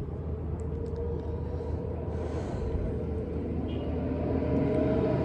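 A motor vehicle's engine running with a steady low rumble, getting louder near the end.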